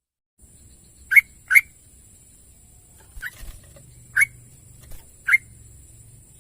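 Sooty-headed bulbul (trucukan) calling: five short whistled notes, a quick pair and then three more spaced about a second apart, over a steady high-pitched hiss.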